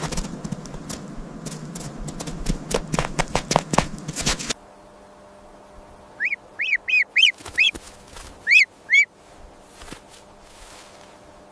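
A crackling, rustling noise with sharp clicks that cuts off suddenly about four and a half seconds in. About eight short, high animal calls follow, each rising and falling in pitch.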